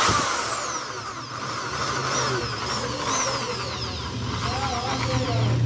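Crown corded electric drill running freely, its motor whine rising and falling over and over as the variable-speed trigger is squeezed and eased.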